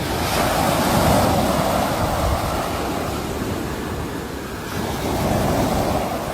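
Sea waves breaking and washing on a shore, one swell building right at the start and another about five seconds in, with some wind on the microphone.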